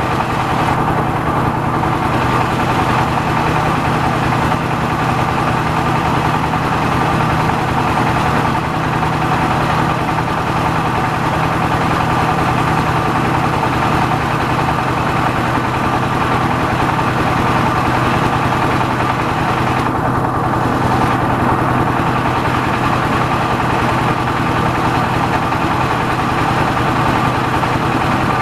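Yanmar AW70V combine harvester's diesel engine running steadily, a continuous even-pitched machine drone.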